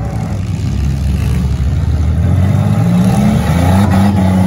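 Demolition derby car's engine revving up as the car pulls away on dirt, the pitch rising about halfway through and then holding high and loud.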